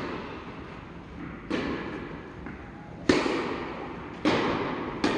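Tennis ball being struck by rackets and bouncing on the court during a rally: four sharp pops, each trailing off in a long echo.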